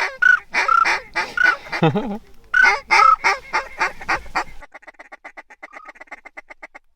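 A hunter blowing a goose call: loud honks and clucks about twice a second. About four and a half seconds in, these give way to a fast run of short, fainter notes, about ten a second.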